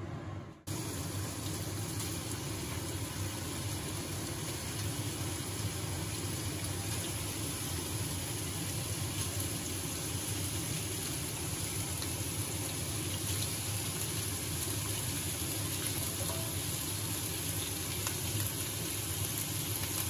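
Pork collar and sliced onion sizzling steadily in hot oil in a wok, starting after a brief gap about half a second in.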